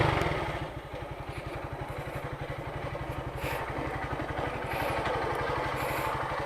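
Motorcycle engine idling, a steady, even putter of low exhaust pulses.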